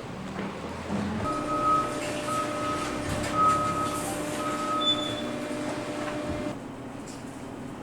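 A machine running with a steady hum that cuts off about six and a half seconds in. Over it an electronic warning beeper sounds four times, about once a second.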